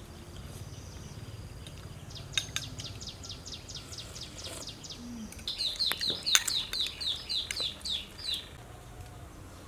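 A bird calling: a quick run of short, high falling notes for about two seconds, then after a short pause a louder, slower run of falling notes for about three seconds.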